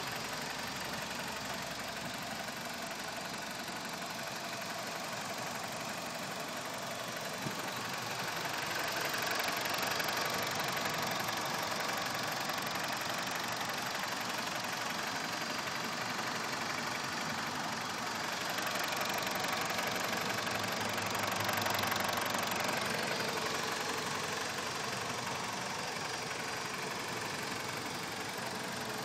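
BMW E46 engine running steadily with a ticking noise of unknown cause. It grows a little louder twice, around a third of the way in and again about three quarters through.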